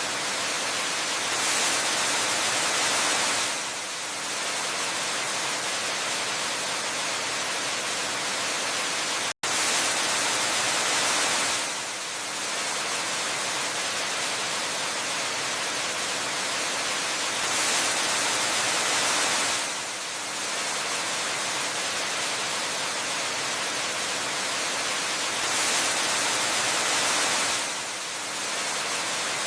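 Waterfall rushing steadily, an even full hiss that swells a little about every eight seconds, with a split-second gap about nine seconds in.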